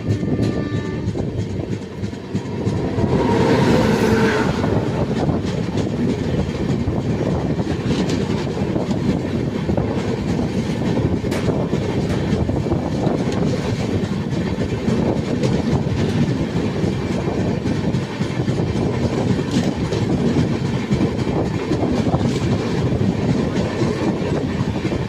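Indian Railways express train (the Durg–Kanpur Betwa Express) running on the line, its wheels clattering rhythmically over the rail joints with a continuous rumble. It grows louder about three seconds in.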